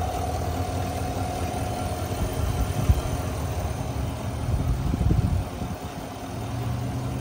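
A 2019 Chevrolet Silverado LTZ pickup's engine idling steadily and smoothly, with literally no engine noise to speak of: it purrs. A couple of soft bumps come partway through.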